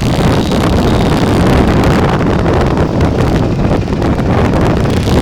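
Heavy wind buffeting on the microphone of a moving bike, a loud, steady rumbling rush with irregular flutter.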